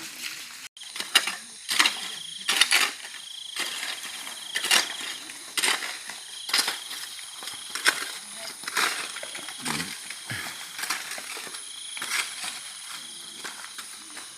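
Hand tools scraping and knocking on road stones and gravel while potholes are filled, about one stroke a second, with a steady high thin hum behind.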